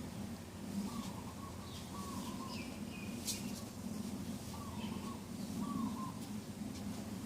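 Morning birdsong: a short call repeated about once a second, with fainter, higher chirps from other birds. A single sharp click comes about three seconds in, over a steady low background rumble.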